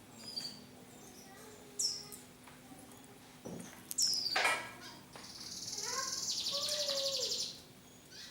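Canaries chirping and singing: scattered short high chirps, then a fast, high trill lasting about two seconds near the end.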